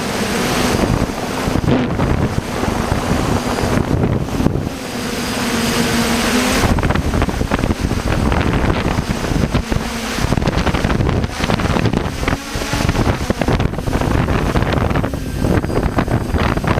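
Strong wind buffeting the microphone, with a faint steady motor hum under it for the first several seconds.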